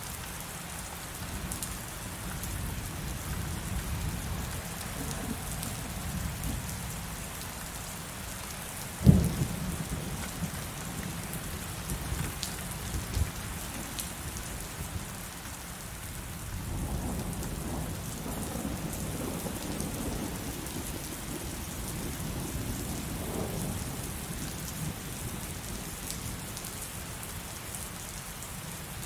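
Steady heavy rain with a sudden sharp thunderclap about nine seconds in, a few smaller cracks after it, then low rolling thunder that swells and fades later on.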